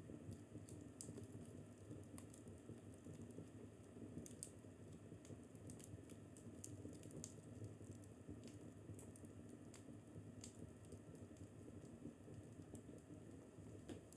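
Wood fire crackling in a fireplace: irregular sharp snaps and pops over a low, steady rumble of the burning logs.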